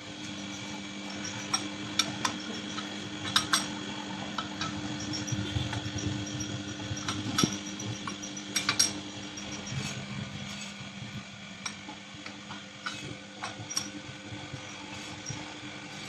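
Metal lathe running with a steady motor hum, with scattered sharp metallic clinks throughout.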